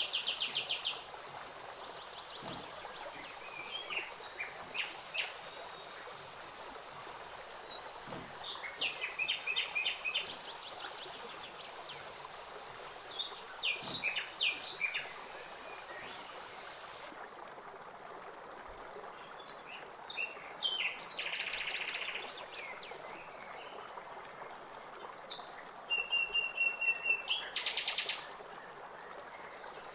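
Birds chirping in short bursts of quick, high trills every few seconds over a steady hiss.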